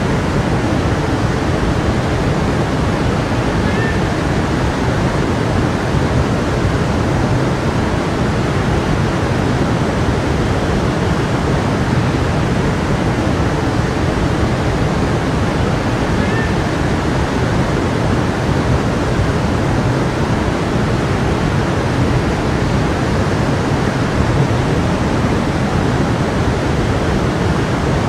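Creek water flowing over rocks, a steady unbroken rushing with no change in level.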